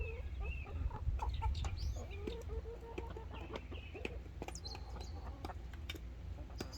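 A flock of chickens clucking and calling, with many short overlapping calls and frequent sharp clicks, over a steady low rumble.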